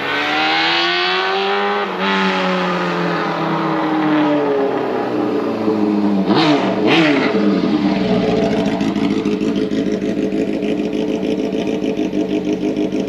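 Kawasaki ZRX400's inline-four engine through a straight-pipe exhaust, revving up and then slowly winding down. Two quick throttle blips come about six and seven seconds in, and then it settles into a steady idle.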